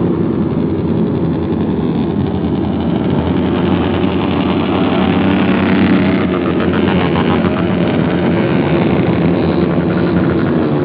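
Dozens of motorcycles with open, unmuffled 'brong' exhausts revving together in a continuous loud din, engine pitch rising and falling as riders blip the throttles.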